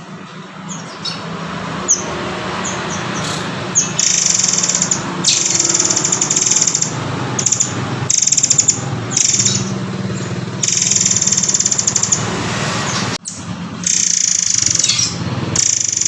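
A songbird, the murai air or murai kopi, sings a tutor song of long, rapid, high trills broken by short notes and brief pauses, with a sudden short dropout about 13 seconds in.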